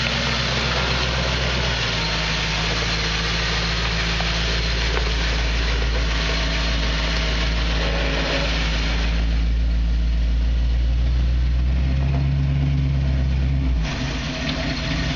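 Off-road vehicle engine working at low speed as the rig crawls up a steep rock, its note shifting with the throttle about two seconds in and again near the end. A steady hiss sits over it and thins out partway through.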